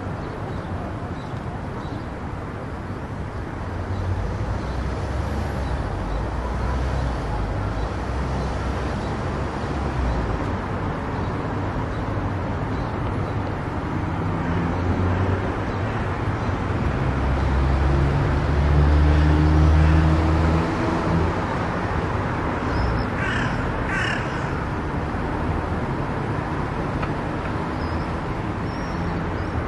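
Steady road and engine noise of a car driving on a highway, with a louder low rumble swelling through the middle. Two short harsh calls come in quick succession about three-quarters of the way through.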